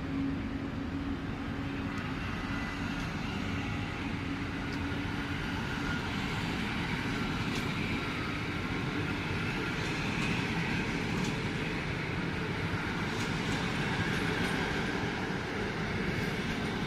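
A train running on the rails: a steady rumble with a few scattered sharp clicks, and a low steady hum that fades out in the first few seconds.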